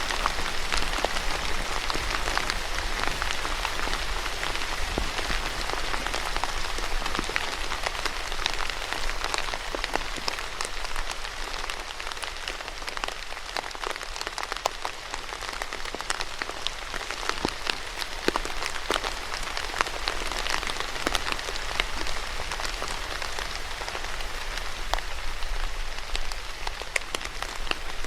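Steady rain falling on a hard surface, a constant patter with many distinct drops striking close by.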